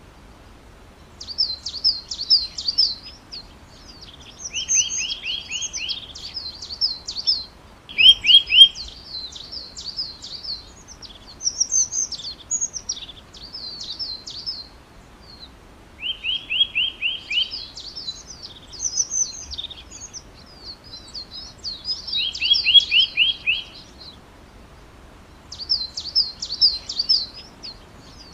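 A songbird singing repeated phrases. Each phrase opens with a quick run of about five clear, falling notes and runs on into a jumbled, higher warble, with short pauses between phrases.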